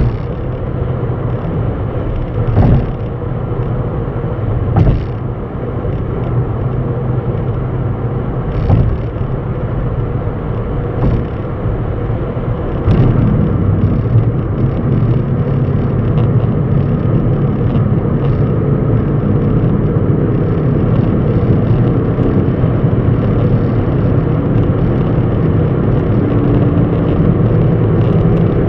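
A vehicle's engine running with a steady low rumble, with a few sharp knocks in the first half. It grows louder about thirteen seconds in.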